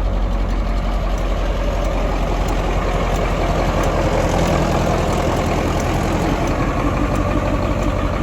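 Detroit Diesel engine of a 1986 Ford F700 dump truck idling steadily.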